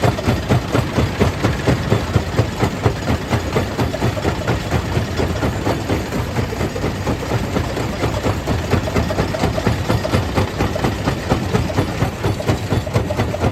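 A stone crusher plant running under load: a heavy continuous machine drone with a fast, uneven pulsing as rock is crushed.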